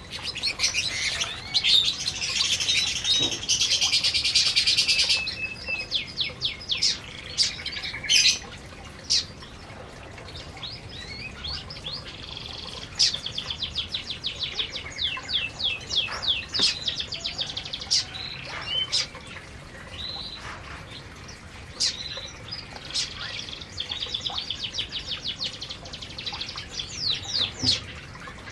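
Several canaries chirping and singing: a dense burst of song in the first few seconds, then quick runs of short high chirps that carry on throughout.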